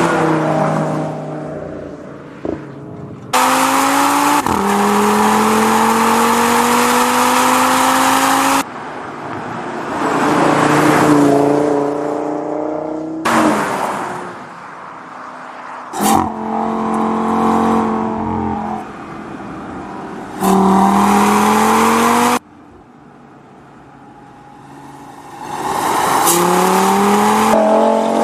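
Audi RS3 Sedan's 400 hp 2.5-litre turbocharged five-cylinder engine and exhaust pulling hard and driving past, with several long rising climbs through the revs. The sound changes abruptly between shots.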